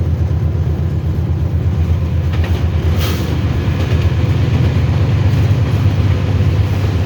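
Train running along the track with a steady low rumble, and a single sharp knock about three seconds in.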